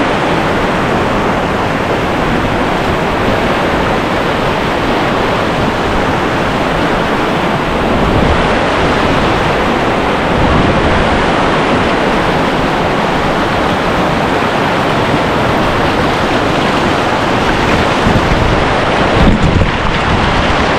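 Whitewater rapid rushing loudly and steadily close to the microphone.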